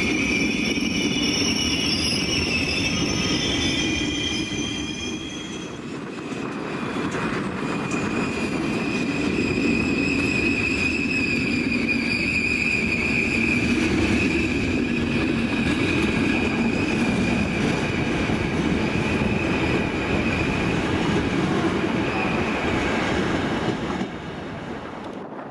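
A passenger train of coaches rolling past the platform, its steel wheels squealing with a steady high-pitched whine over a low rumble of wheels on rail. The sound drops away about a second before the end as the last coach clears.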